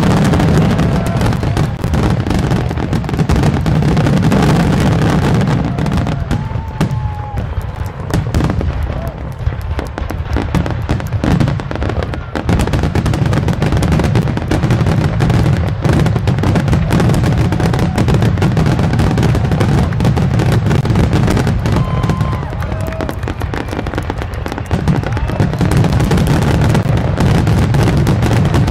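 Fireworks display: a dense, rapid barrage of aerial shells bursting and crackling almost without pause, over a continuous low rumble.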